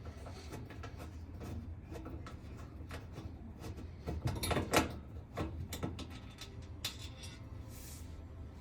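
A screwdriver backs a screw out of the oven's sheet-metal gas panel, making a run of small metallic clicks and scrapes, with a couple of louder knocks about halfway through.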